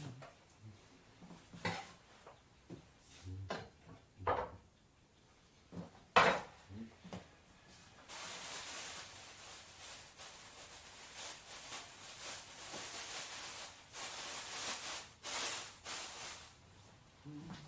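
Salad being made in a kitchen: scattered knocks and clinks of dishes and utensils, the loudest about six seconds in. About eight seconds in, a continuous rushing, rustling noise starts and lasts about nine seconds.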